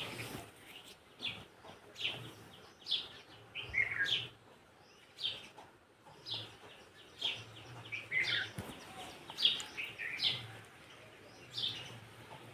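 Small birds chirping repeatedly: short, high, downward-sliding chirps about once a second.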